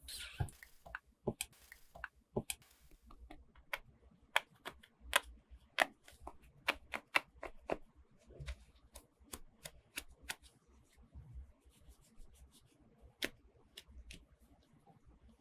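Sharp, irregular clicks and taps of small plastic toy parts and packaging being handled during an unboxing, a few a second.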